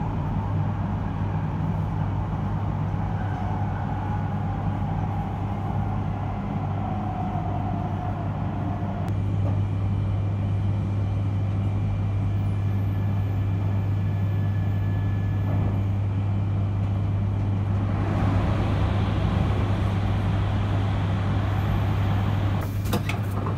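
Interior running noise of an E3 series Shinkansen slowing into a station: a steady low hum with a whine that falls in pitch over the first nine seconds or so. From about eighteen seconds in a broader hiss grows louder.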